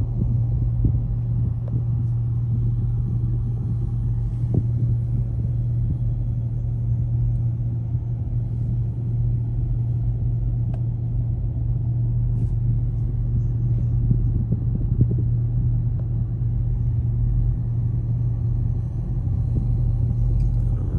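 Car engines idling at a car meet: a deep, steady rumble that holds one low pitch.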